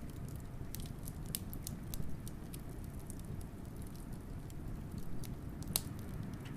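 Fire crackling with scattered sharp pops, the strongest about three-quarters of the way through, over a steady low wind rumble.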